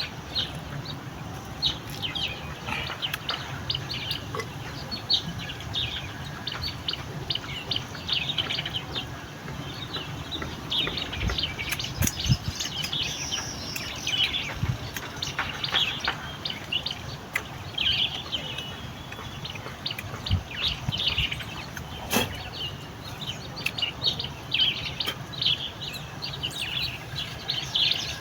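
Small birds chirping in quick, repeated bursts throughout, over a low steady rumble, with a few sharp knocks along the way.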